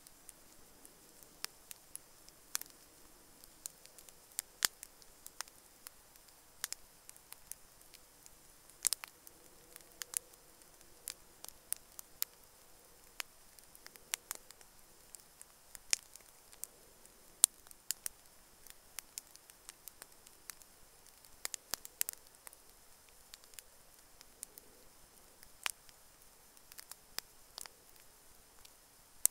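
Wood campfire crackling, with irregular sharp pops and snaps over a faint hiss; one louder snap comes a little past the middle.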